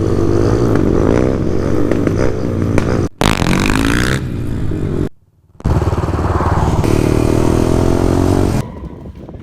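Off-road motorcycle and quad engines running and revving in a string of short clips. The sound breaks off briefly about three seconds in, stops for half a second around five seconds, and turns much quieter near the end.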